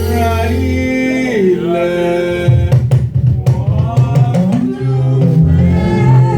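Live praise music: singing over low sustained notes, with a quick run of drum hits about two and a half seconds in.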